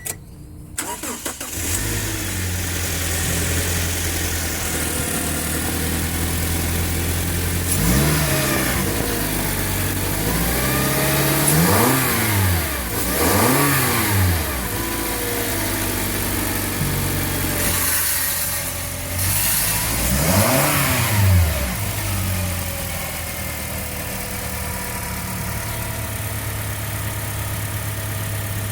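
2017 Toyota Hiace engine started, settling into a steady idle, then revved up and let fall back four times before idling again.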